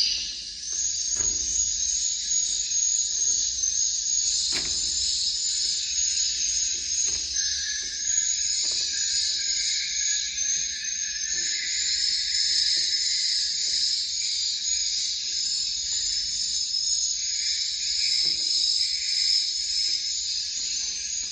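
Swiftlets twittering: a dense, unbroken chorus of high-pitched chirps, with a few faint knocks underneath.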